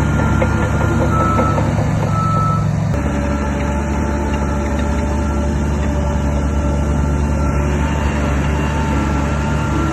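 Heavy earthmoving machine's engine running steadily, with a reversing alarm beeping repeatedly over it. The engine note changes abruptly about three seconds in.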